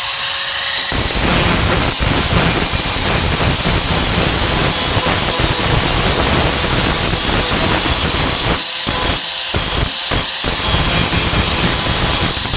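Warrior 4-1/2 in. angle grinder with a Type 27 grinding disc, its high whine turning to loud grinding as the disc bites into the steel about a second in, grinding down the weld on a sheet-metal patch. Near the end the disc lifts off the metal briefly three or four times, then grinds on.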